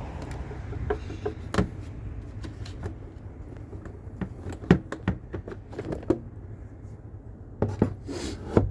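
A handful of sharp clicks and knocks, irregularly spaced, over a steady low rumble.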